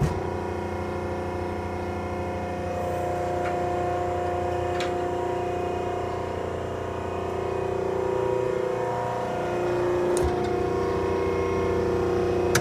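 Baler running steadily with a droning, whining tone, with a couple of sharp clicks.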